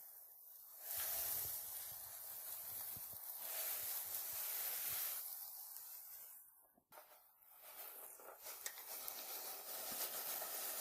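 Steady hissing noise, breaking off briefly about seven seconds in and returning with a few faint ticks.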